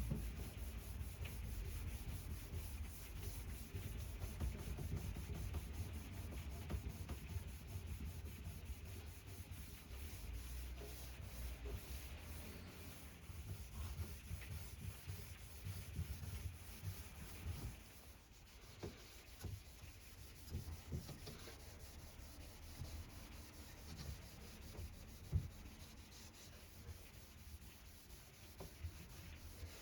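Hand rubbing strokes on old wood, like sanding or buffing a drawer surface by hand, going on steadily. It drops off about two-thirds of the way through, leaving quieter rubbing with a few light knocks.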